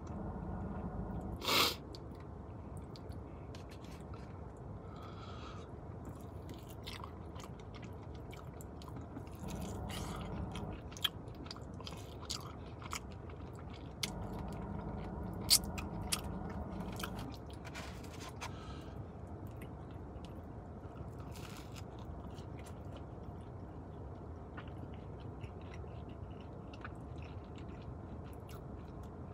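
Close-up eating sounds of a person biting and chewing crispy fried chicken wings: repeated crunching and crackling with wet mouth clicks, and one loud crunch about a second and a half in.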